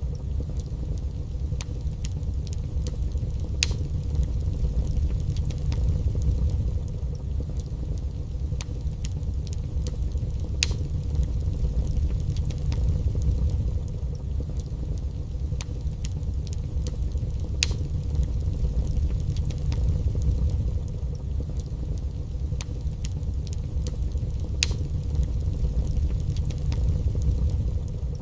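Wood fire burning in a fireplace: a steady low rumble with irregular sharp crackles and pops, a few of them louder snaps.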